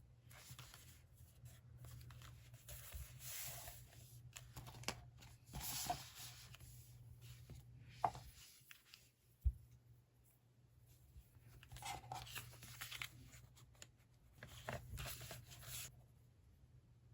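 Paper and stationery being handled for diary decorating: several short rustling, tearing passes, with two sharp clicks near the middle.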